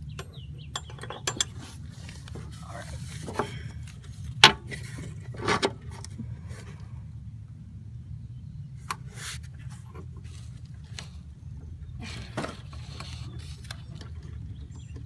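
Scattered metal clinks and knocks of lawnmower parts and hardware being handled while a drive belt and pulley part are refitted, with the sharpest knock about four and a half seconds in, over a steady low rumble.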